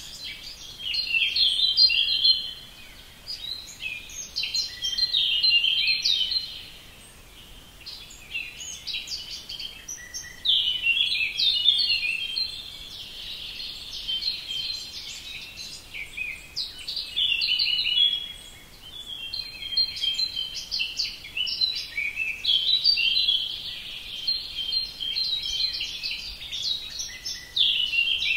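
Songbirds singing: fast, high chirping phrases a few seconds long, with short pauses between them.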